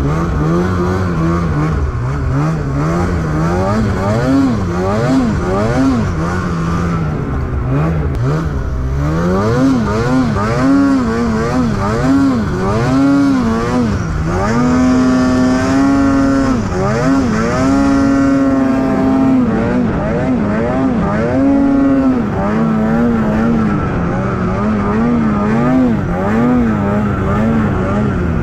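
Snowmobile engine revving up and down over and over as the throttle is worked while riding, its pitch rising and falling about once a second and climbing highest about halfway through.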